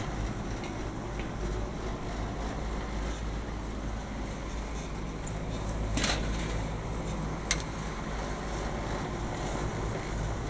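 Steady running hum of rooftop air-conditioning equipment, with a deep rumble underneath. Two sharp clicks, about six and seven and a half seconds in.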